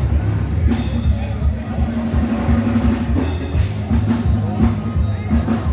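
Loud band music with a drum-kit beat and heavy bass.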